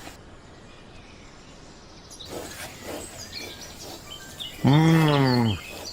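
Small birds chirping: short high chirps begin about two seconds in over a quiet background. About five seconds in comes one loud, drawn-out, voice-like pitched call that bends in pitch.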